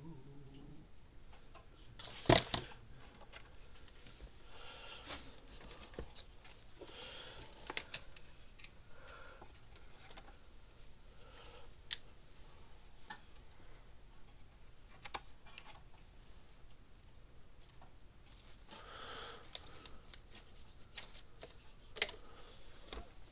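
Handling of a small electric fence charger and its circuit board on a workbench: scattered light clicks and rustling, with a sharp knock about two seconds in and another near the end.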